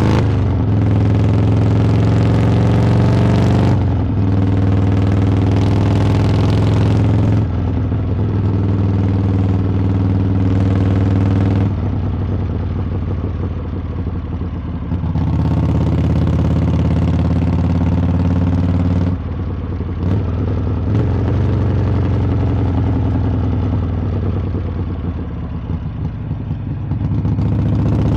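Harley-Davidson V-twin engine and exhaust under way, pulling under throttle with short breaks every few seconds as the note shifts, like gear changes. Twice it drops to a quieter, lower-pitched run as the throttle eases off, then picks up again near the end.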